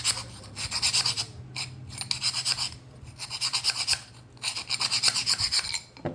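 Sandpaper rubbed quickly back and forth over the freshly drilled stove nozzle to smooth the holes, in four bouts of fast scraping strokes with short pauses between them.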